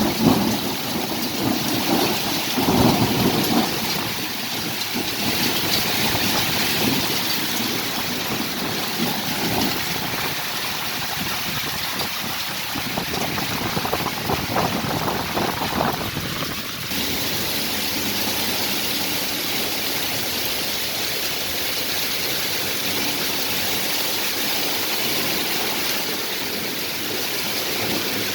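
Heavy rain pouring steadily in a thunderstorm, with thunder rumbling in the first few seconds. About 17 seconds in, the rain's sound changes abruptly, then goes on evenly.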